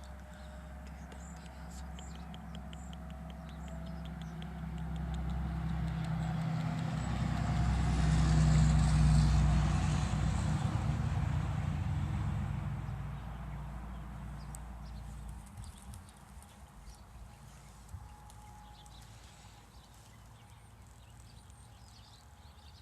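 A motor engine passing by: a low hum that grows louder over several seconds, peaks about eight seconds in, then fades away.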